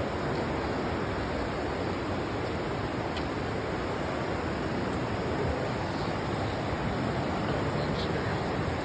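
Steady rushing of river water, an even hiss with no break, with a few faint ticks over it.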